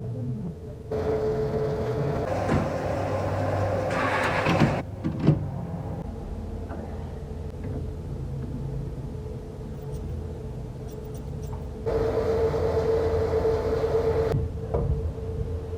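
Electric power tool motor running with a steady hum that stops and starts abruptly, with a couple of sharp knocks about five seconds in.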